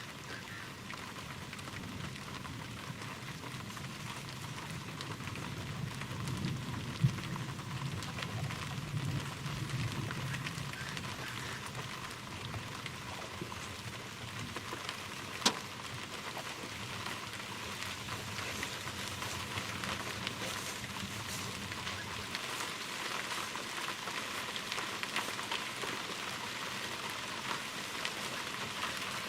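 Steady rain falling, with two sharp knocks, about seven and fifteen seconds in.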